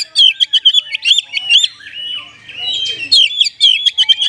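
Oriental magpie-robin (kacer) singing a fast run of short, sharp chirping notes, several a second, with no break.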